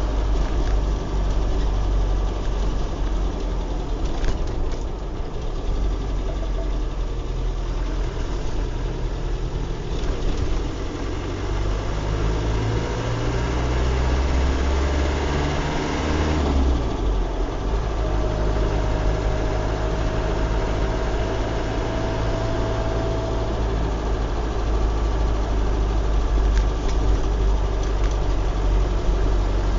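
A vehicle's engine running, with tyre noise on a wet road, heard from inside the cab. The engine note rises and changes about halfway through.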